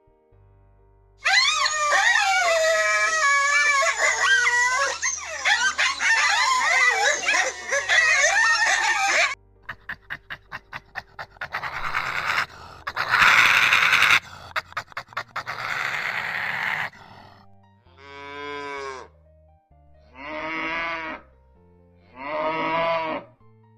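A run of animal calls from several short clips: several seconds of many overlapping calls sliding up and down in pitch, then a fast train of clicks, loud noisy bursts, and three separate pitched calls near the end.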